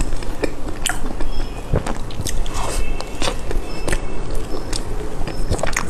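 Close-miked eating of a soft chocolate-coated cake: sticky chewing and lip smacks, with frequent sharp mouth clicks.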